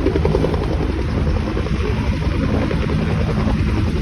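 Firefighting helicopter's rotor chopping steadily as it hovers low over the water to fill up, its downwash buffeting the microphone.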